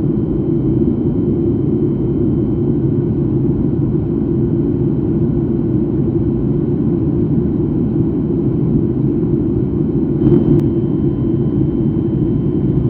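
Airliner cabin noise in flight: a steady, even rumble of engines and airflow, with a faint steady high whine. A single brief click comes about ten and a half seconds in.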